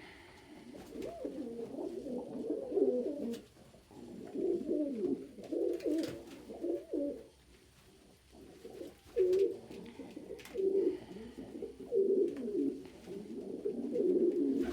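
Domestic pigeons cooing: repeated low, wavering coo phrases in bouts, with short lulls about four and eight seconds in.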